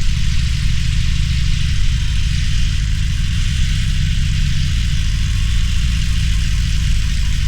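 Harley-Davidson Roadster's air-cooled V-twin engine running steadily, its exhaust a rapid low pulsing with a steady hiss above it.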